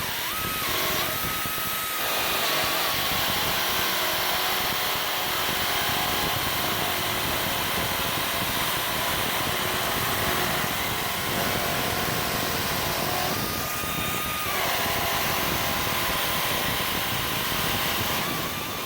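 Pneumatic air nibbler cutting through a sheet-steel floor pan, its air-driven punch hammering continuously with air hiss, a thin higher whine showing briefly near the start and again about two-thirds of the way through.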